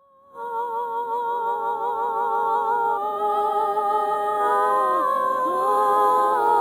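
Music intro of sustained, wavering vocal notes in several voices, sung or hummed without words, changing notes about three and five seconds in.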